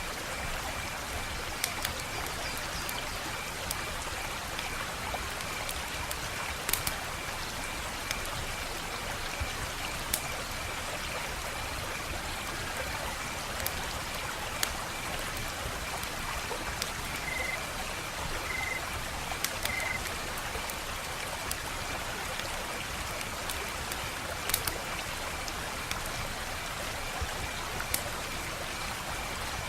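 Wood fire crackling, with sharp pops scattered irregularly over a steady hiss of burning; a few pops stand out louder than the rest.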